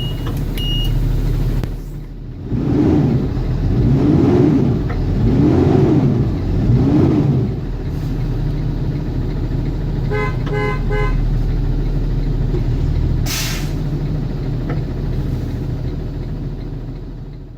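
Cummins ISB 6.7 inline-six diesel of a school bus idling after a cold start, with four short revs that rise and fall in pitch. About ten seconds in there is a quick pulsed beeping tone, then a sharp hiss lasting a fraction of a second.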